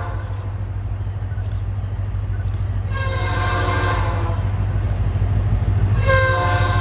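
Diesel freight locomotive approaching over a steady low engine rumble that grows louder, its multi-chime air horn sounding a blast about three seconds in and starting another near the end.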